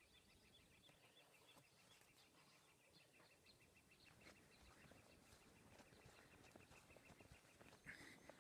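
Faint bird trill: a fast run of short, high notes on one steady pitch, about ten a second, fading out after about six seconds, with a soft knock near the end.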